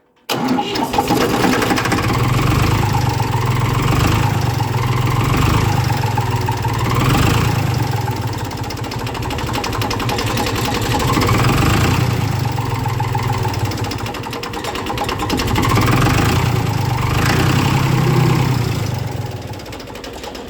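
An engine running on a cold start, cutting in abruptly and holding a steady low hum while its pitch swells up and falls back again and again, easing slightly near the end.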